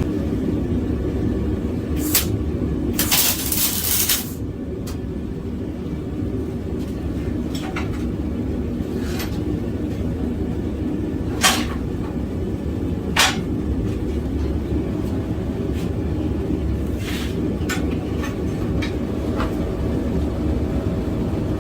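Steady low roar of a propane forge burner. Over it come a few sharp clicks and a crackling hiss of about a second, about three seconds in, from the arc welder tacking the two scarfed pieces together.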